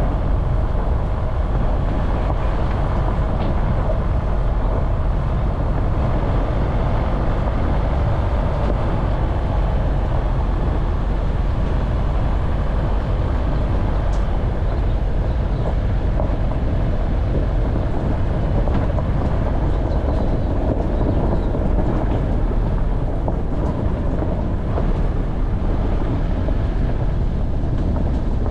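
Off-road vehicle driving on a rough mountain track, its engine and the rumble of the ride steady throughout.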